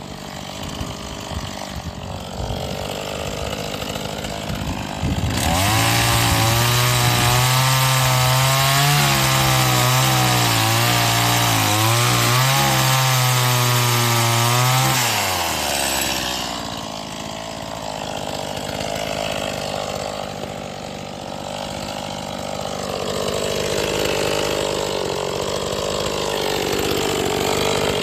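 STIHL MS 180 two-stroke chainsaw: it runs low for a few seconds, then is throttled up about five seconds in and cuts wood for about ten seconds, its pitch wavering under load, before dropping back to a lower running note for the rest of the time.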